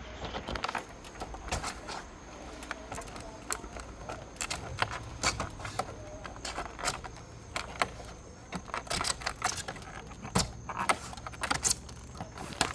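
Brittle vinyl siding clicking, snapping and rattling in quick irregular clicks as a panel is worked with a siding tool to re-lock it; the panel is cracked and won't lock back in.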